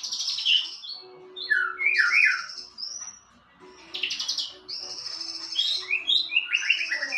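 White-rumped shama (murai batu) singing: several varied phrases of fast high trills and downward-sliding whistled notes, separated by short pauses.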